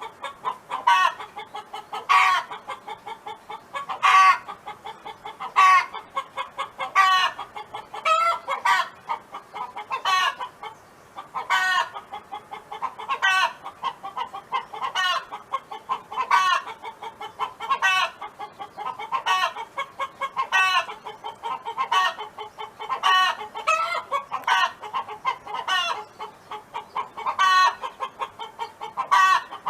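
Domestic hen clucking: a steady run of short clucks, broken every second or two by a louder, drawn-out call.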